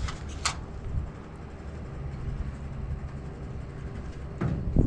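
Mobile crane's diesel engine running steadily during a lift, a low rumble with a steady hum. A few light knocks come in the first half second and a louder knock near the end.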